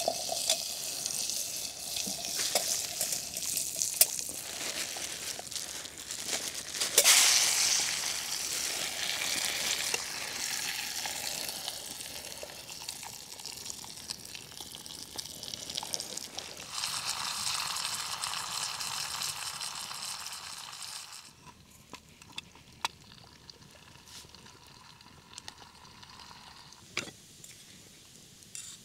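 Goulash meat frying in a pot over a campfire, a steady sizzle with a few sharp knocks. About three quarters of the way through the sizzle drops away, leaving a quieter stretch with occasional clicks.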